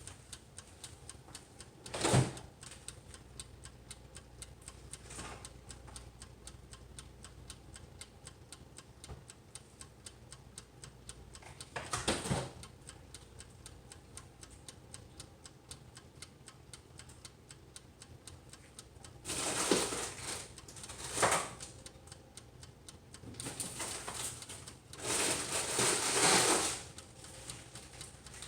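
Toaster oven's mechanical wind-up timer ticking steadily while it counts down the preheat. Louder knocks and rustling break in about two seconds in, around twelve seconds, and in longer stretches near the end.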